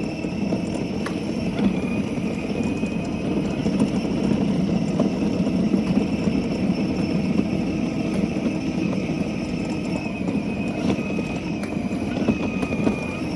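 Mini bike engine running steadily while riding along, a continuous low drone with a thin, steady high whine above it.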